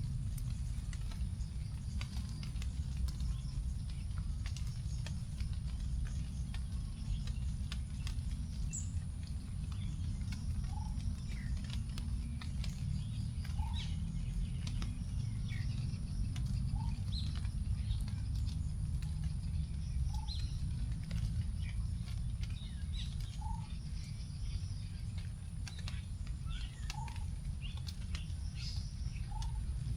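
Leftover raindrops falling from the forest canopy onto leaves in scattered irregular ticks, with small birds chirping: a short low note recurs every three seconds or so among scattered higher chirps. A steady low rumble lies underneath throughout, with a thin steady high tone above.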